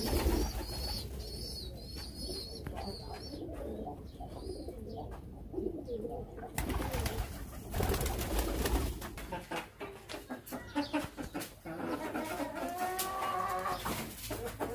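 Domestic pigeons cooing over a low rumble.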